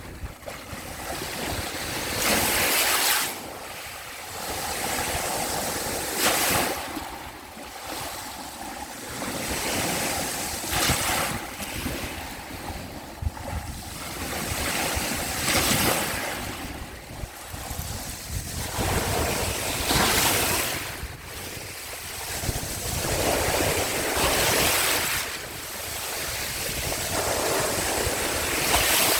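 Small sea waves washing onto the shore. Each wave comes in as a rush of surf about every four to five seconds, over a steady hiss of water.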